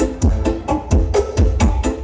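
Loud dance music played through a large carnival sound system: a fast, even beat of about three strokes a second, with deep bass kicks that drop in pitch and a melodic line over them.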